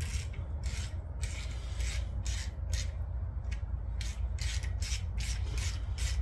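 Hand-tool work at a Honda B18 engine block's freshly tapped bolt hole: a run of short, irregular rasping strokes, about two to three a second, over a low steady hum.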